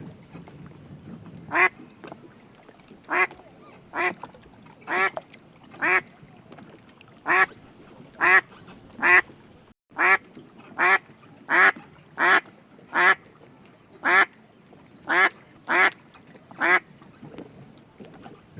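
Duck quacking: a series of about seventeen short single quacks, spaced about a second apart at first and coming faster in the second half.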